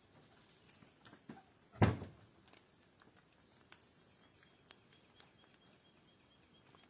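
One heavy thump about two seconds in, among faint scattered clicks and ticks.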